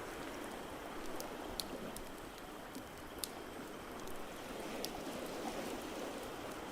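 Crackling fireplace, with scattered sharp pops and snaps over a steady rushing wash of water sound.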